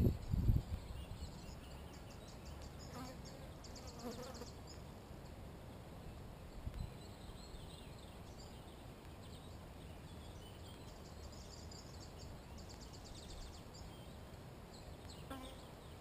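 Quiet forest-edge morning ambience: small birds give several short, high, rapid trills with a few faint calls between them. A brief low rumble comes at the very start.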